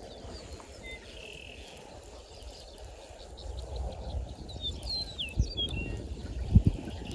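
Birds calling: a few short chirps, then a quick run of rising and falling whistled notes about five seconds in. Under them is a low rumble, with two dull thumps near the end, the second the loudest sound.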